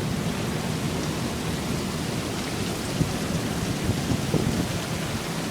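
Heavy rain falling steadily, a dense even hiss with a few faint ticks of drops, during a severe thunderstorm that is just beginning to ease.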